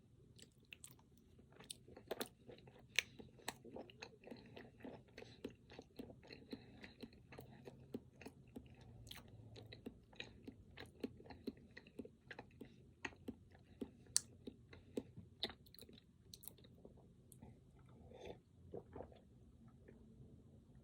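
Close-miked chewing and biting of a Pingüino chocolate snack cake with cream filling: a dense, irregular run of wet mouth clicks and smacks that thins out near the end.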